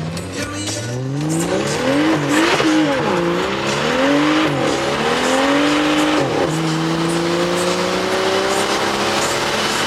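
A tuned car engine under hard acceleration. The revs climb, drop back and climb again a few times, then rise steadily in one long pull from about six and a half seconds in.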